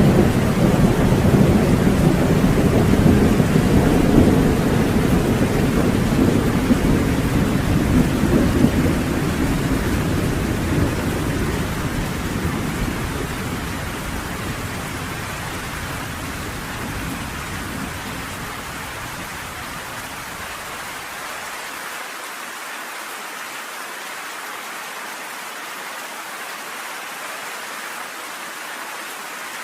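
Thunder rumbling over steady heavy rain on a porch. The rumble is loudest at the start and dies away slowly, and the deep part cuts out suddenly about three-quarters of the way through, leaving the even hiss of the rain.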